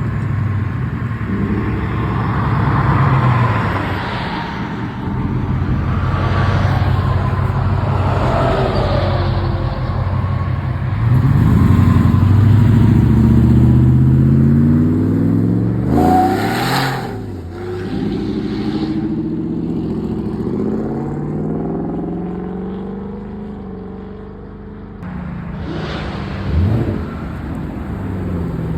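Car engines revving and accelerating, their pitch climbing and dropping through the gears. A car passes loudly about sixteen seconds in, and there is a shorter loud pass near the end.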